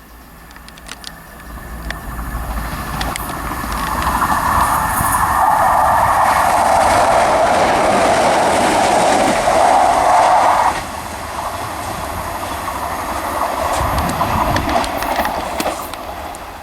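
A diesel passenger train passing through the station at speed without stopping, with rumble and wheel-on-rail clatter. It grows louder over the first few seconds and holds loud for about six seconds. The sound drops suddenly near the middle as the train goes by, then fades away.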